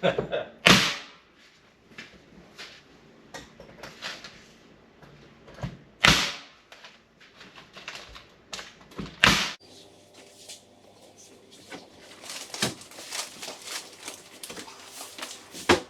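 Nail gun firing four sharp, loud shots, about a second in, near six and nine seconds, and near the end, tacking shiplap boards to the wall, with smaller knocks and clicks of boards being handled between them. A low steady hum sets in after about nine and a half seconds.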